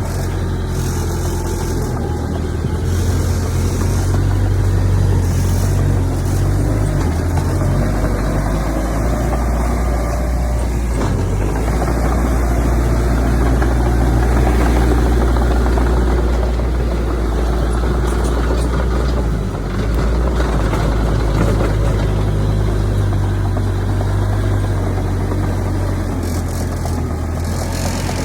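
Heavy diesel earthmoving engine running steadily, its low note shifting a little now and then.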